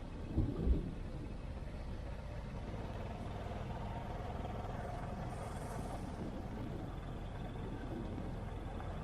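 Steady low rumble of distant city traffic, with two brief low thumps about half a second in.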